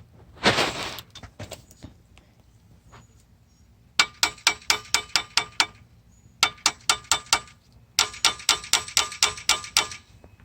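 Hand ratchet wrench clicking in three runs of quick, evenly spaced metallic clicks, about six a second. A short scraping clatter comes about half a second in.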